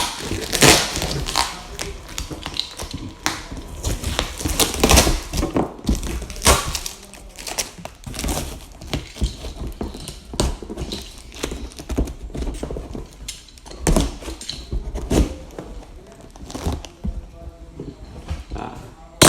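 Exhaust muffler packaging being handled and opened by hand: irregular rustling and scraping with repeated thunks.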